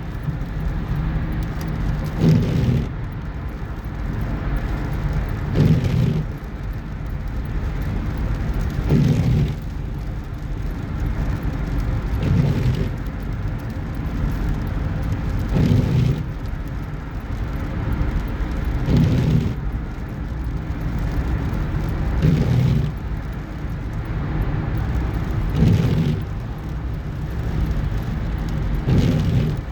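Car driving, with steady road and engine rumble. A brief swell in the noise comes about every three and a half seconds.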